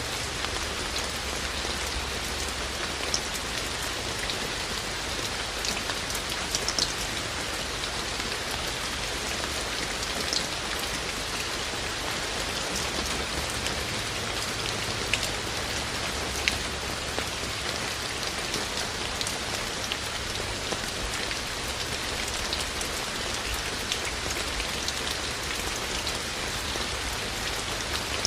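Steady rain falling, an even hiss with scattered sharper ticks of individual raindrops striking a surface.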